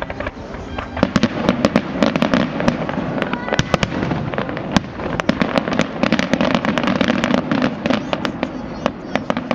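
Fireworks going off in a rapid, dense string of sharp cracks and bangs, thickest from about a second in.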